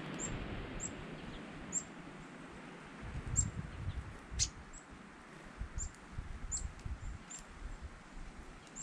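Songbird giving short, sharp, high chip notes about once a second, one louder about halfway through, with wind buffeting the microphone.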